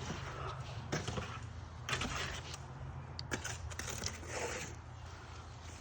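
Scattered scrapes and knocks, about five in all, from handling tools and materials while measuring, over a steady low hum.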